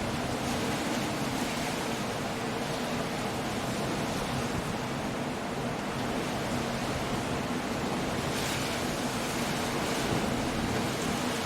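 Storm surf on a rocky coast: a steady rush of breaking waves and wind, swelling briefly about eight seconds in.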